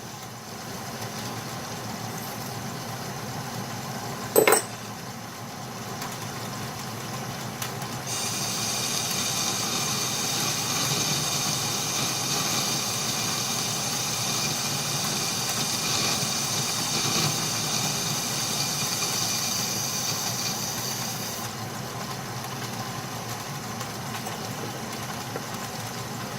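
Atlas metal lathe running while a boring bar takes a deep cut, about 20 thou, that is throwing stringy, bird's-nest chips. One short sharp knock comes about four seconds in, and a high hissing whine of the cut sets in about 8 seconds in and stops about 21 seconds in.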